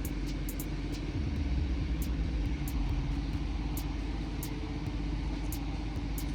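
Tow truck engine running while the truck is manoeuvred into line with the car, with a steady low hum. The low rumble swells for a few seconds starting about a second in.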